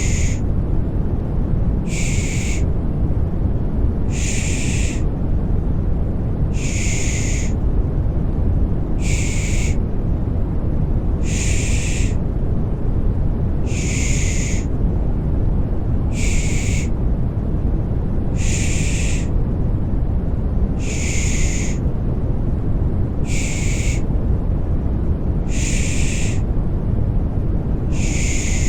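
Rhythmic 'shh' shushing for soothing a baby, a short hiss repeated evenly about every two and a half seconds, over a steady, deep white-noise rumble.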